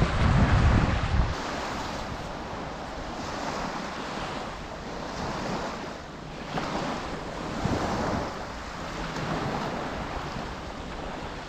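Small waves washing and lapping, swelling every couple of seconds, with wind rumbling on the microphone for about the first second.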